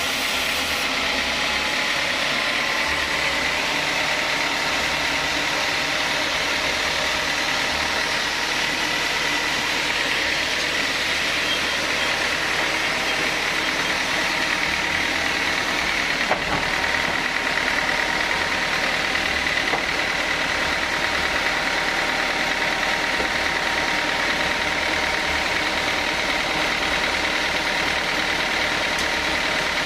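Sawmill saw machinery running steadily, a loud even mechanical noise with a faint high whine. One short click about sixteen seconds in.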